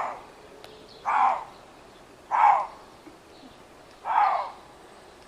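Lynx calling: four short calls, each rising and falling in pitch, spaced about a second and a half apart.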